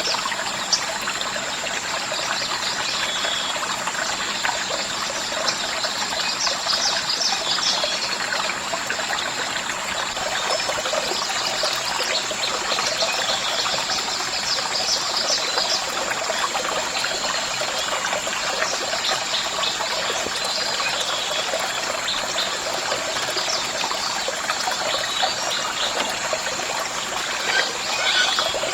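Water trickling steadily, with a high, thin steady whine and many short scattered chirps over it.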